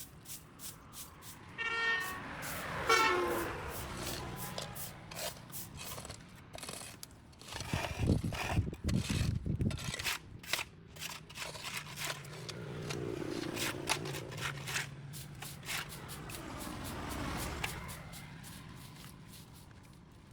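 Motor vehicles passing one after another on the road, each swelling and fading with a falling pitch, the loudest one about eight seconds in. A short horn-like tone sounds about two seconds in, and sharp clicks are frequent throughout.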